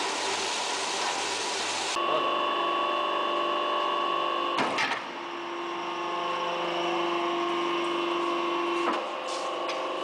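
Tire recycling machinery running steadily. About two seconds in the sound changes abruptly from an even rushing noise to a steady hum with whining tones, with a couple of brief knocks.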